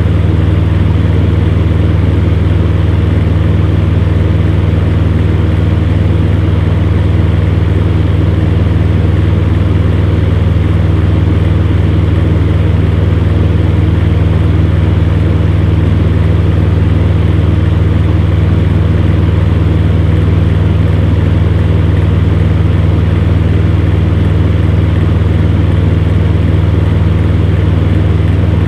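Electric fan heater running steadily: a constant low motor hum under an even rush of blown air.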